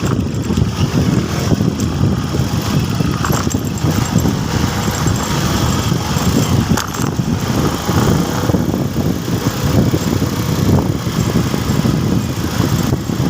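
Motorcycle engine running steadily under way, with continuous road and traffic noise.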